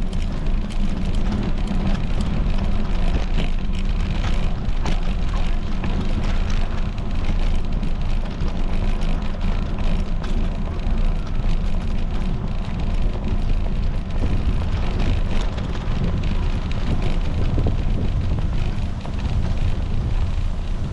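Wind buffeting the microphone of a bike-mounted action camera while riding, a steady low rumble, with faint scattered clicks and rattles over it.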